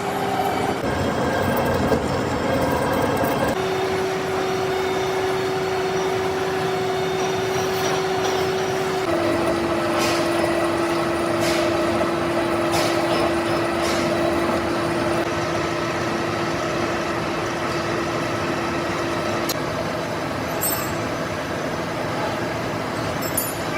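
Metalworking machine tool running steadily, with a droning tone that drops lower in steps, about three seconds in and again about nine seconds in, and a few faint clicks.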